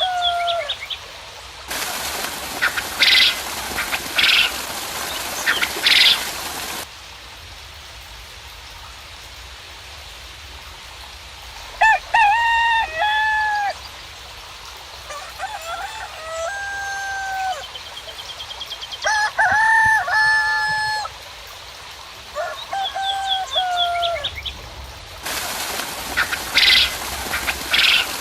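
Roosters crowing, about five times, with small birds chirping high over them. Near the start and again near the end, a few seconds of steady rain hiss cut in and out abruptly, with high bird calls over the rain.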